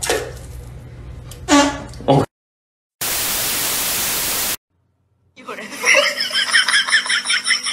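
Water rushing in a flushing toilet with two short voice-like cries or laughs over it, then about a second and a half of loud TV static hiss, then a high squeaky sound repeating about four times a second as a long balloon inflates.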